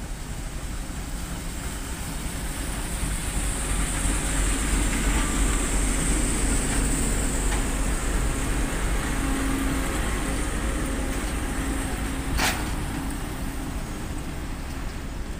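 TEP70 diesel locomotive passing at low speed with its engine running, then its passenger coaches rolling by on the rails as the train slows for its stop; loudest as the locomotive goes past, with one sharp clank about twelve seconds in.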